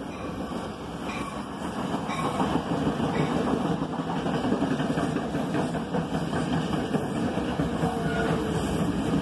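NJ Transit commuter train rolling past on the Northeast Corridor tracks, a steady rumble and clatter of wheels on rail. It grows louder over the first few seconds as the coaches draw level, then holds.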